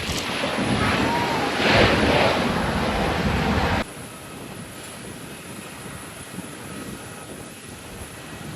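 Airbus A320neo jet airliner's engine noise mixed with wind rumbling on the microphone, cutting off abruptly about four seconds in to a quieter, steady background of distant aircraft noise.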